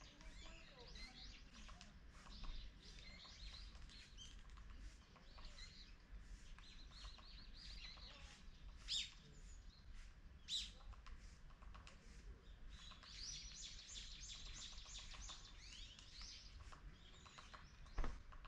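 Small birds chirping and twittering, with a denser stretch of twittering about two-thirds of the way through, over a faint low rumble. A single sharp click comes near the end.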